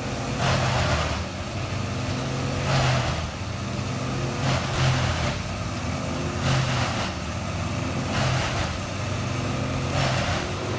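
Morbark M20R wood chipper running steadily under its engine, with a rush of chipping noise swelling about every two seconds as branches are fed through and shredded.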